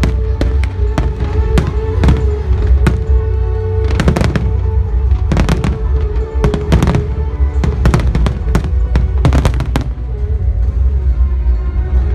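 Fireworks bursting: a rapid run of sharp bangs and crackles, thickest in three volleys in the middle and latter part, over music with a heavy steady bass.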